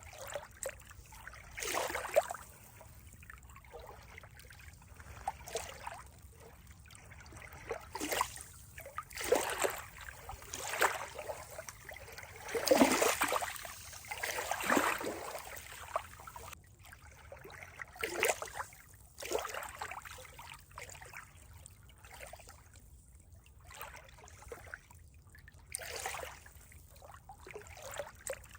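Water trickling and splashing in uneven bursts every second or two, with quieter stretches between; the biggest splash comes about halfway through.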